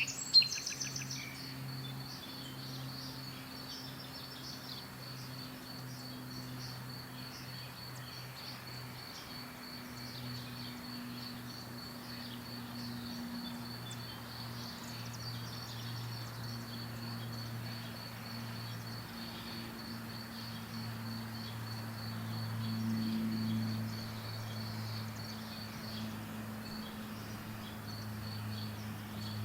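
A cricket chirping steadily in an even, fast, high-pitched pulse, with a few bird chirps at the very start and faint ones scattered after. A steady low hum runs underneath.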